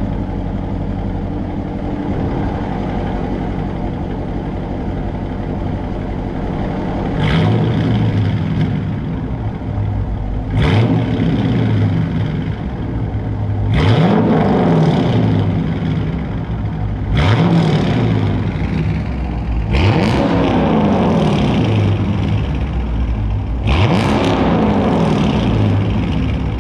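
2019 Dodge Charger R/T's 5.7-litre Hemi V8 with a mid-muffler delete idling, then revved six times, in pairs at about 2,000, 3,000 and 4,000 rpm. Each rev rises quickly and falls back to idle.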